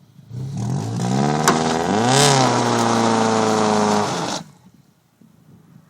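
Honda Civic's engine revving hard under load as it tows a stuck Ford F-150. The revs climb for about two seconds, peak, hold high and steady, then cut off suddenly a little past four seconds in, with a short click about a second and a half in.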